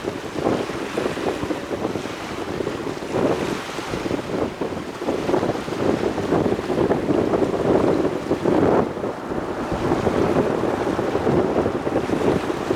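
Wind buffeting the microphone in uneven gusts, strongest a little past the middle.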